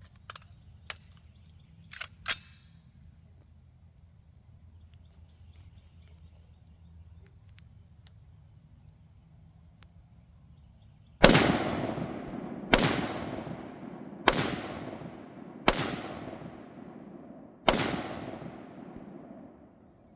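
Five shots from a DS Arms AR-15 rifle firing 75-grain full metal jacket .223 rounds, spaced about a second and a half to two seconds apart, each ringing out and fading slowly. A few light clicks come before them.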